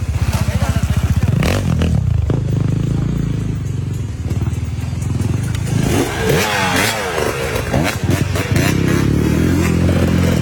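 Off-road motorcycle engines revving hard, the pitch rising and falling in quick bursts, with scattered knocks and scrapes over the engine sound.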